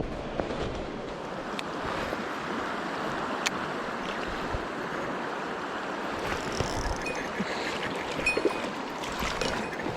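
Mountain stream rushing: a steady wash of running water, with a few sharp clicks over it.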